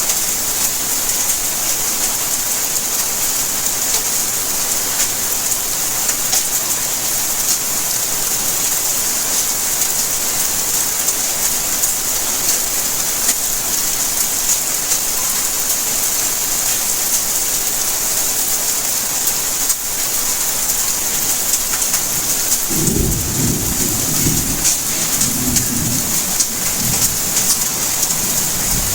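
Steady rainfall, a dense even hiss of drops. Near the end a low rumble of thunder rolls in, swelling several times.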